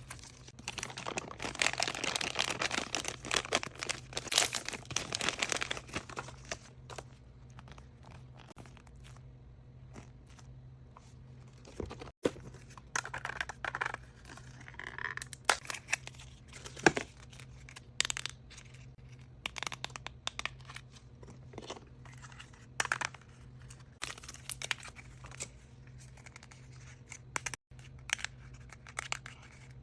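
Wrapping paper on surprise toys being torn and crinkled by hand: a dense stretch of rustling and tearing in the first few seconds, then scattered crackles and small clicks as the unwrapping goes on.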